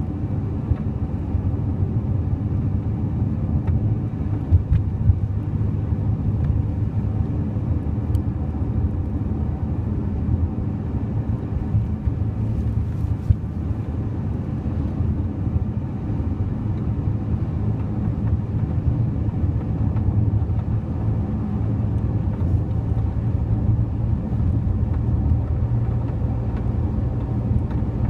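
Steady road and engine rumble inside a moving 2006 Honda Elysion minivan, with a few faint clicks and knocks from the sliding door. This is a recurring rattle that repairs have not cured, which Honda puts down to age-related wear.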